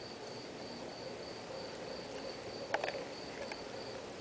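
A cricket chirping steadily, a high tone pulsing about three times a second. A short cluster of sharp snaps a little under three seconds in is the loudest moment.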